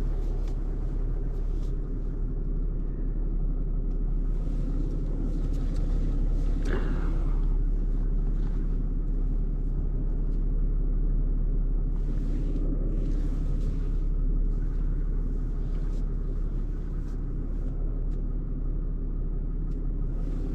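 Tow truck engine running steadily with a low rumble while the truck is maneuvered, with a brief falling whine about a third of the way in.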